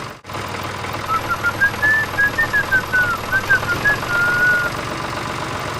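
A short whistled tune of quick notes that climb and then fall, ending on one held note, over a steady low background noise.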